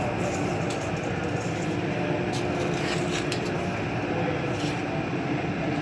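Steady background hum of machinery in a truck shop, with a few faint light clicks.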